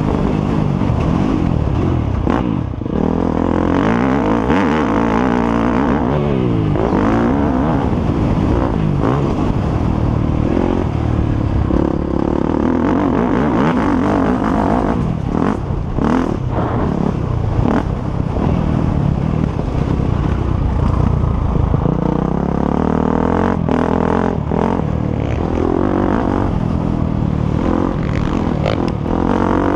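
Several motocross motorcycle engines racing, their pitch repeatedly rising and falling with throttle and gear changes as the bikes pass one another. A few brief knocks sound over the engines.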